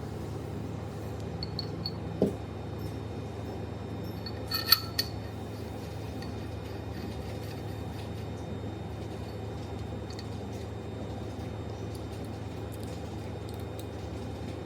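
Light metallic clinks of thick-turret punch press tool parts being handled during assembly: a small knock about two seconds in and a sharper, ringing clink near five seconds, over a steady low hum.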